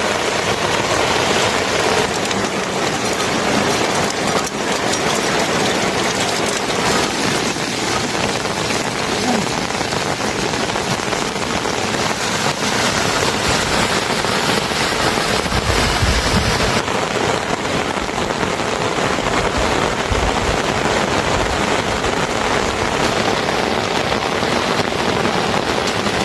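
Steady, heavy rain falling and pattering on surfaces, with a brief low rumble about two-thirds of the way in.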